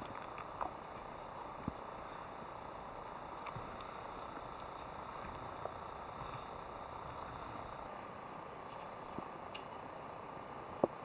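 A chorus of summer insects shrilling steadily high up, its pitch bands shifting partway through, with scattered faint clicks and one sharper tick near the end.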